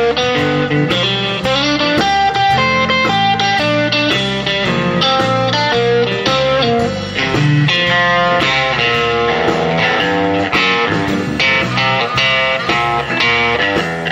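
Band music led by electric guitar, in a bluesy style, with a run of quick changing notes over a steady low line.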